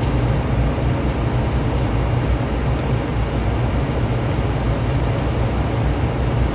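Steady low droning background noise with a few faint small clicks.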